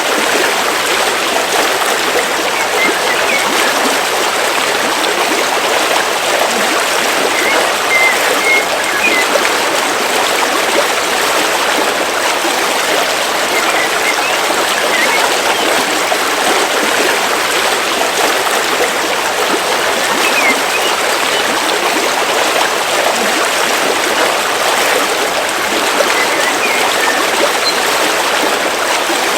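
A river flowing steadily, a constant rush of running water. A few faint bird chirps come through now and then.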